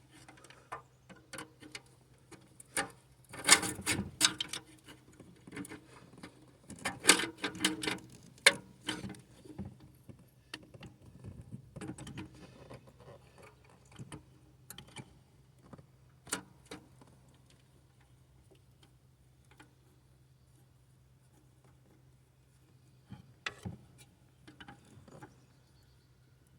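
Irregular clicks, scrapes and clatters of a clamp and hand tools working the metal exhaust heat shield on a Chevy 8100 Vortec big block. They come in a few busy bursts in the first half, then sparse taps, over a faint steady low hum.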